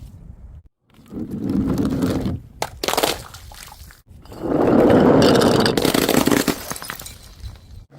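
Objects being crushed and broken, with crunching and cracking. There are two main stretches: a shorter one about a second in, and a longer, louder one from about halfway through. Each stops abruptly.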